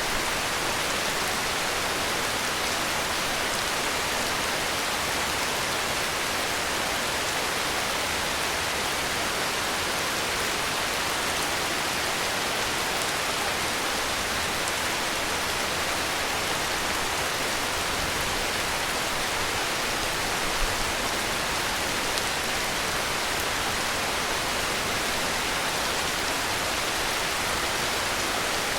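Heavy rain falling steadily, an even, unbroken hiss of countless drops with no thunder or sudden sounds.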